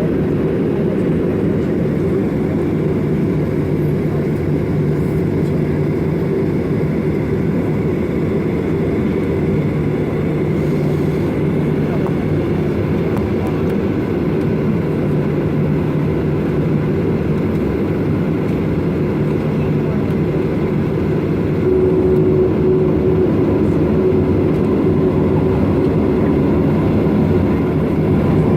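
Boeing 737-800 heard from inside the passenger cabin: a steady, loud rumble of its CFM56 jet engines and rushing air. About three quarters of the way through it steps up slightly louder and a steady hum joins it.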